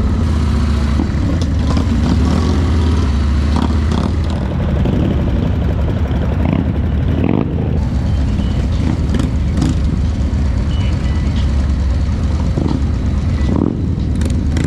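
Motorcycle engines running steadily, with a strong low engine tone and a few brief sharper noises over it.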